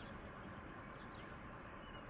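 A bird giving short, quickly falling chirps about once a second, faint over a steady background hiss.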